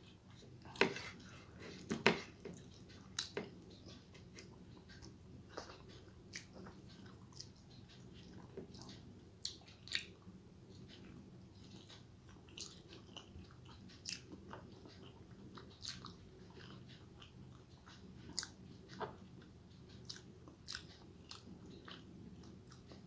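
Close-up chewing and mouth smacking of a person eating rice and boiled egg in egg curry, with many irregular wet clicks; the loudest come about one and two seconds in.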